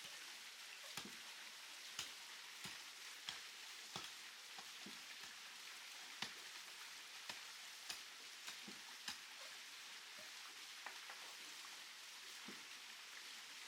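Steady hissing noise with irregular light ticks, roughly one or two a second.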